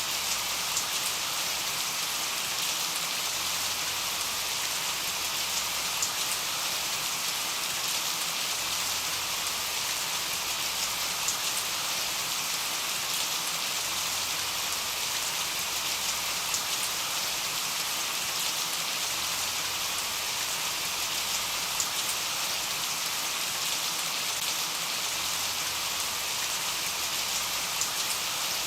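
Steady rain falling, an even hiss with a scattering of separate drop ticks.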